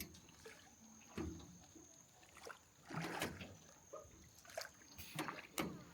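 Oars dipping and splashing in the water as a rowboat is rowed, several strokes at uneven intervals, with a faint steady high whine underneath.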